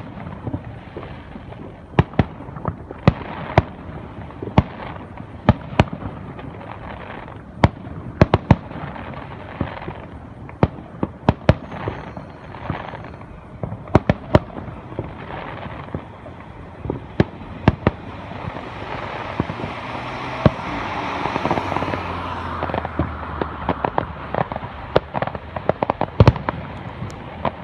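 Fireworks display: a steady run of sharp bangs at irregular intervals, several a second at times, with a louder, denser stretch of crackling and rumble about two-thirds of the way through.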